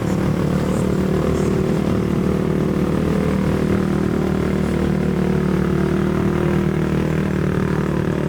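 UTV engine running at a steady speed, a continuous drone that holds the same pitch and level throughout.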